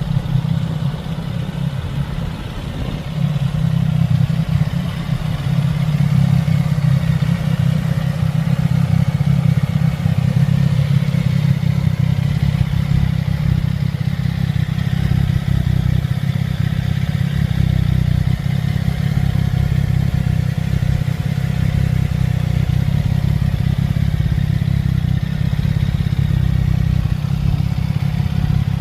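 CFMOTO 675SS's inline three-cylinder engine idling steadily, a little louder from about three seconds in.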